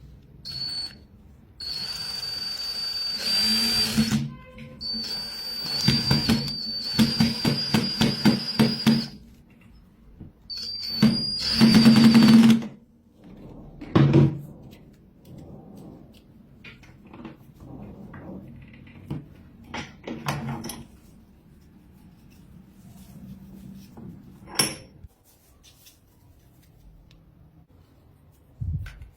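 A small power tool running in three bursts of a few seconds each, a steady high whine that starts and stops abruptly, followed by scattered knocks and handling sounds.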